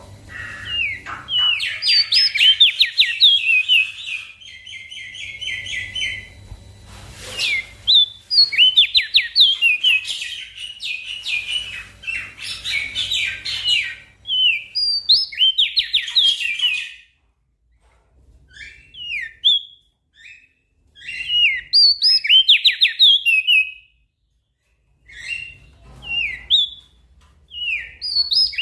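Small songbird singing in rapid runs of short, high chirping notes, phrase after phrase, with a couple of brief pauses along the way. A faint low hum lies underneath in the first half.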